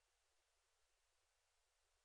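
Near silence: a faint, steady hiss with no distinct sound.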